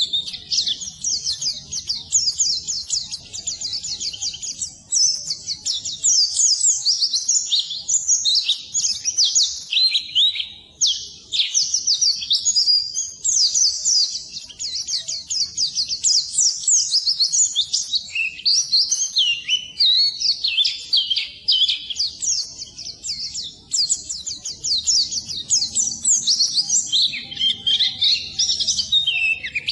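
White-eye (pleci) singing its rapid, high-pitched twittering song, nearly continuous, with only a few short breaks.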